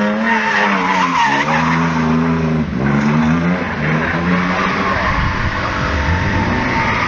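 Mercedes 190E with a 3.6-litre M104 straight-six, the engine revving up and dropping back several times while the tyres squeal and skid through a drift.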